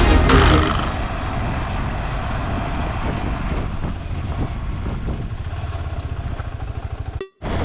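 KTM 390 Adventure's single-cylinder engine running steadily under way, with road and wind noise; the sound breaks off briefly near the end. Music fades out about a second in.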